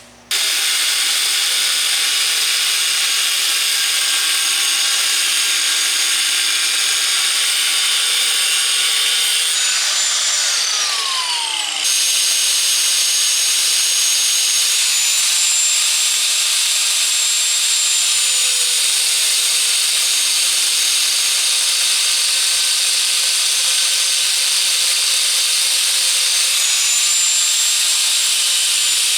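A high-speed motor running steadily with a high whine. Its pitch slides down about ten seconds in, then jumps back up.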